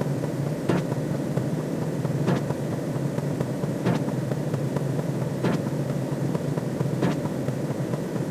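Looping sound-effect drone: a steady low rumbling noise with a faint click about every one and a half seconds.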